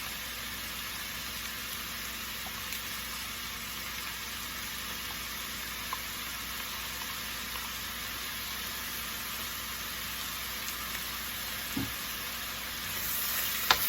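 Shredded chicken with onion and garlic sizzling steadily in a frying pan, soy sauce just added. The sizzle gets louder and brighter near the end.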